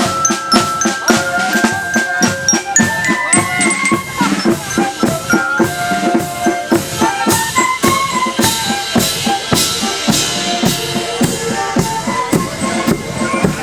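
Marching band playing a march: drums keep a steady beat under a melody of held notes.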